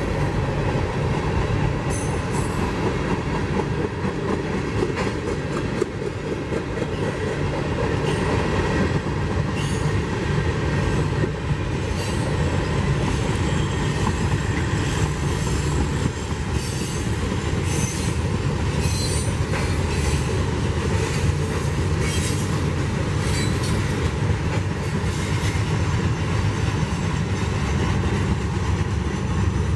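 A train's cars rolling steadily past on the rails. Its wheels squeal on and off, over a clickety-clack from the rail joints.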